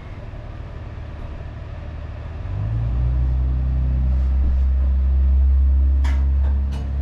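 A low, steady machine hum, the kind a motor or engine makes, that swells louder about two and a half seconds in and holds. Two or three short sharp clicks or scrapes come near the end.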